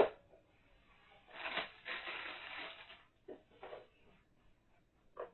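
A sharp click, then about two seconds of rustling and a few light knocks, from the plastic parts of a baby high chair being handled during assembly.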